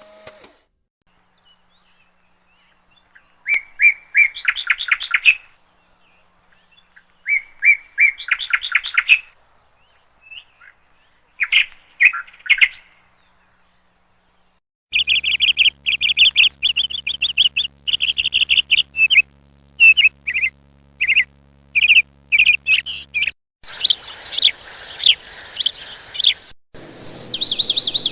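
Songbirds singing: three short trilled songs a few seconds apart, then from about halfway a dense run of rapid chirps. The background changes abruptly a few times, as where separate recordings are joined.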